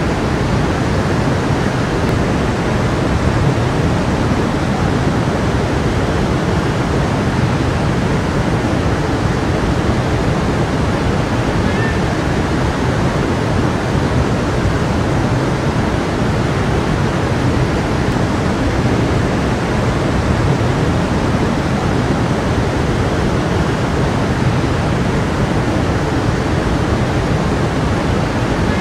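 A stream of water flowing and rushing steadily over rocks, a continuous even rushing.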